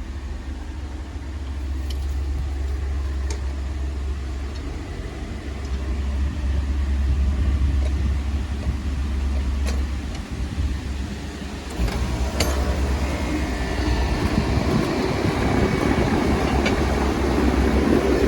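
1998 Rheem air conditioner running: a steady low hum with fan noise over it and a few sharp clicks. A louder rushing noise builds over the last third.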